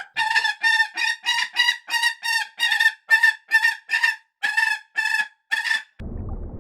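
A bird calling over and over, a rapid series of short, evenly pitched calls at about three a second. About six seconds in the calls stop and a steady low rushing noise takes over.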